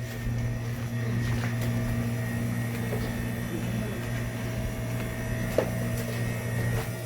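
Steady low machine hum with a few fixed tones, and a few faint clicks and knocks.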